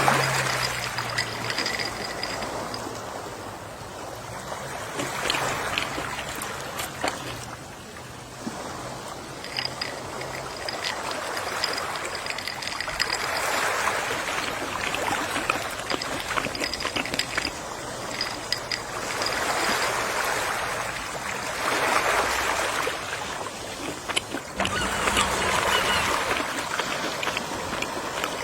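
Gentle sea waves washing in and drawing back, the surf swelling and fading every several seconds.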